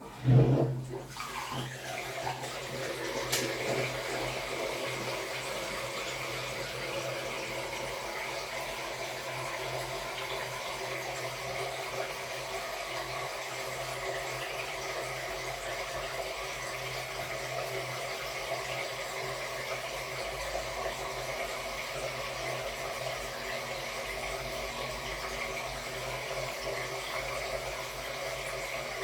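Samsung Wobble 14 kg top-loading washing machine filling with water: it starts suddenly with a low hum, then water runs steadily into the tub.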